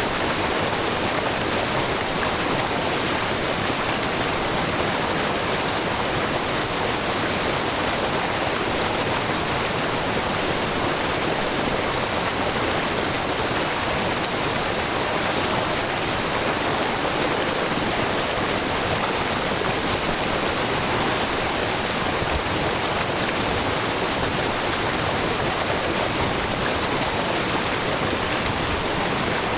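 Steady, even rush of water from a wide, low waterfall: many thin streams of spring water spilling over a rock face into a pool.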